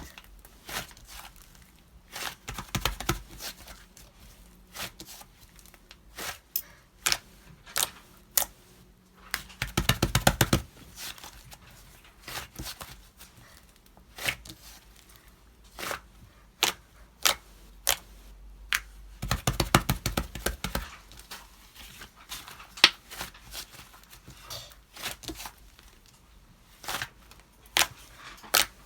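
White slime being squished and poked by hand, giving sharp sticky clicks and pops. There are two stretches of rapid crackling, about ten seconds in and again around twenty seconds.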